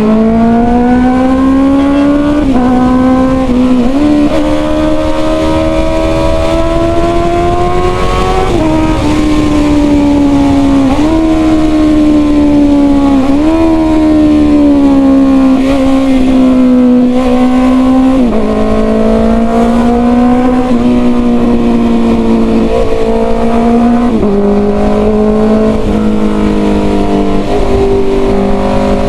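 Honda CB650R's inline-four engine through a full-system exhaust, under way with its note sliding up and down and jumping in pitch every few seconds as the gears change.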